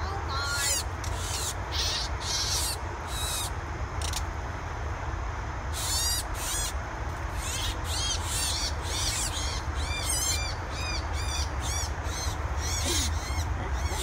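Small birds calling in many quick, high, repeated chirps and chips, over a steady low rumble.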